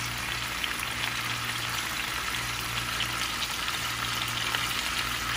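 Marinated whole chicken frying in a pan, a steady sizzling with fine crackles.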